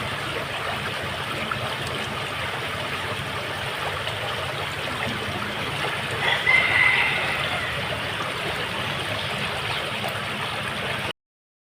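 Steady rain falling, a dense even hiss. About six seconds in, a brief high call sounds over it, and near the end the rain sound cuts off suddenly.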